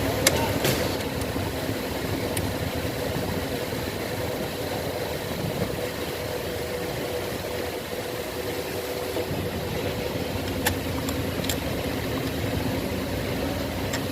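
An engine idling steadily, with a few light clicks near the start and again about two-thirds of the way through.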